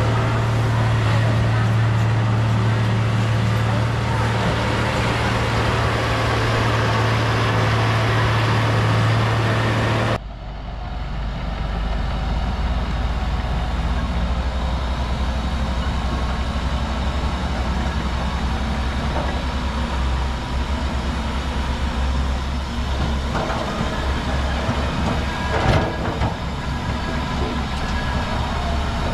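Heavy earthmoving machinery's diesel engine running steadily. About ten seconds in the sound cuts abruptly to a lower, deeper engine note, and a sharp clank comes near the end.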